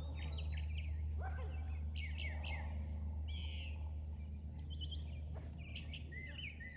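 Several songbirds chirping and calling in quick, short notes over a steady low rumble. Near the end a high, thin buzzing trill joins in.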